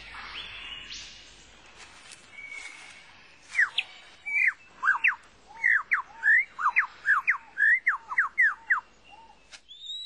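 Superb lyrebird singing: after a few seconds of fainter forest birdsong, a loud run of clear whistled notes, each sweeping sharply down in pitch, about three a second.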